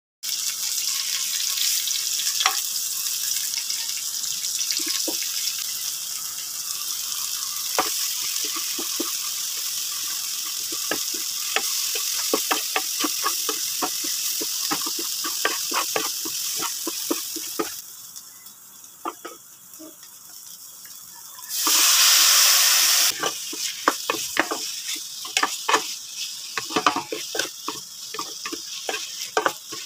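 Tomatoes frying in hot oil with garlic and onion in a nonstick pan, a steady sizzle with the clicks and scrapes of a wooden spatula stirring. A little past halfway the sizzle dies down, then a loud burst of sizzling lasts about a second and a half as raw pork goes into the hot pan, followed by more spatula scraping.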